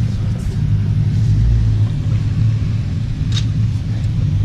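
Pickup truck's V8 engine running steadily with a low rumble, heard from inside the cab, with a brief faint click about three and a half seconds in.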